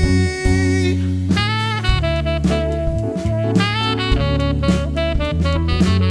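Live funk band playing an instrumental passage: a lead instrument plays a melody of short and held notes over bass and drums.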